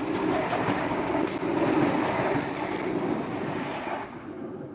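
A train passing close by, its wheels clattering on the rails, the sound fading away near the end.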